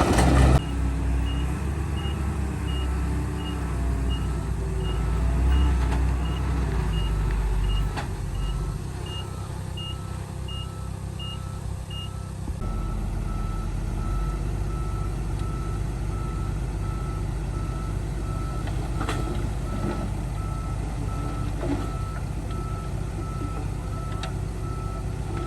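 Two reversing alarms beeping in even pulses over the steady low running of heavy diesel machinery; the higher-pitched beeper stops about halfway through while the lower one keeps going.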